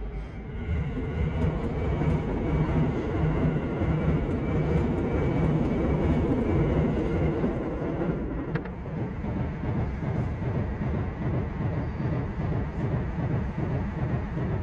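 Electric train passing on the tracks: a steady rumble that builds about a second in, holds for several seconds, then eases off.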